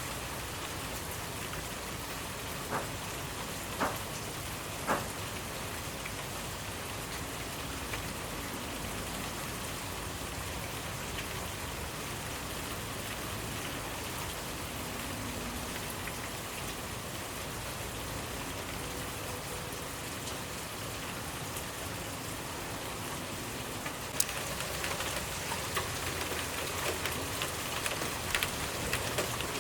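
Steady rainfall with drops pattering on a surface and a few sharp single drop ticks. About two-thirds of the way in the rain gets a little heavier, with more frequent drips.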